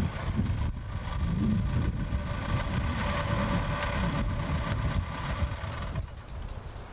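A car's engine idling close by with a steady hum, which stops about six seconds in.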